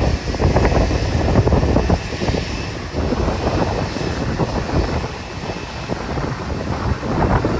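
Airliner jet engine noise, largely buried under gusty wind buffeting the microphone. It is somewhat louder for the first two seconds.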